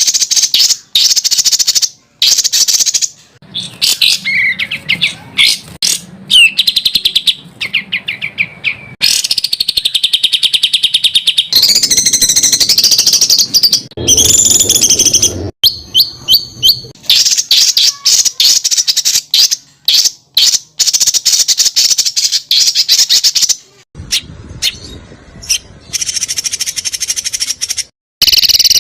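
Songbirds singing loud, rapid strings of high notes, trills and whistled glides. The song is spliced from several recordings, with abrupt cuts every few seconds. It is a masteran mix of 'tembakan' burst phrases used to tutor competition songbirds.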